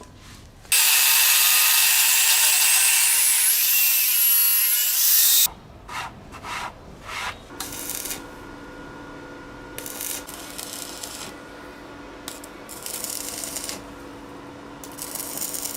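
Workshop tool work: a loud continuous rasping run of about five seconds with a faint rising whine, then several shorter rasping strokes a second or two apart.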